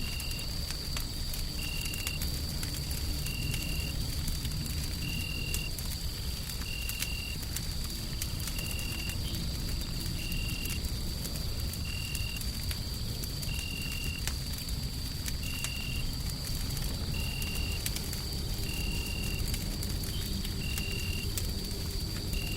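Wood fire crackling with scattered sharp pops over a deep, steady white-noise rumble. A thin high whine holds steady above it, and a short high chirp repeats evenly about every second and a half.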